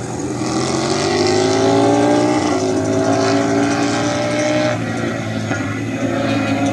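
MotoGP race motorcycle engines accelerating past, their pitch rising over the first two seconds, holding, then falling away about two-thirds of the way through.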